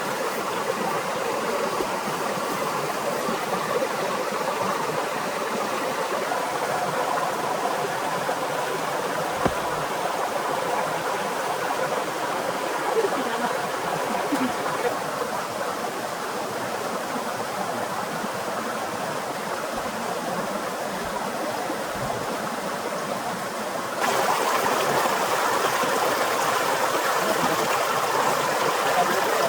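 Steady rushing of water, an even hiss with no distinct events. Near the end it suddenly becomes louder and brighter.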